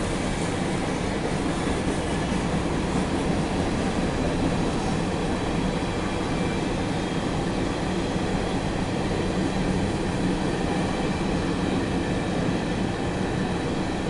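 Empty CSX coal train rolling past: the steady rolling and rattling of empty open-top coal cars on the rails, heard from inside a vehicle.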